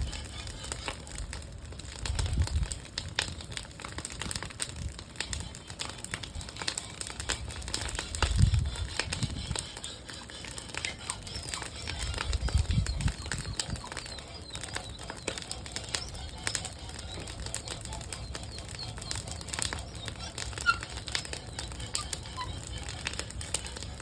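Bonfire of wooden pallets burning, with a steady stream of sharp crackles and pops. Three brief low rumbles come about two, eight and twelve seconds in.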